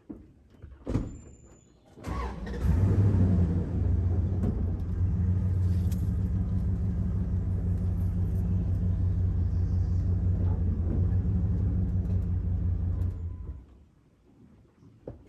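A pickup truck's engine starts, runs steadily for about eleven seconds, and shuts off.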